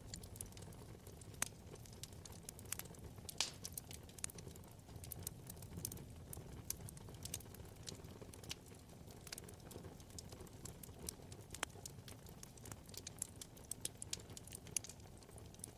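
Wood fire burning in a fireplace, crackling with many small irregular snaps and a few sharper pops over a soft, steady low rumble of the flames.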